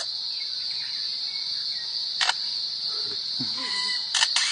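A steady high-pitched insect drone, broken by a single sharp click about two seconds in and a quick run of clicks near the end.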